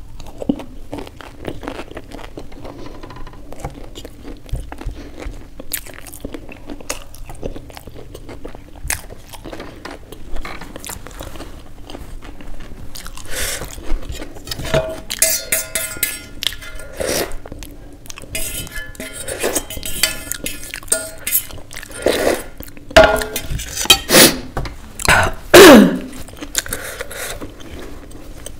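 Close-miked eating sounds: chewing, lip smacks and finger licking, quiet at first and getting louder and more frequent in the second half, with the loudest wet smacks near the end.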